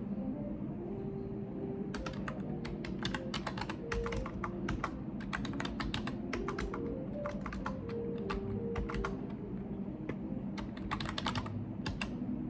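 Typing on a computer keyboard: quick runs of key clicks starting about two seconds in, with short pauses between them.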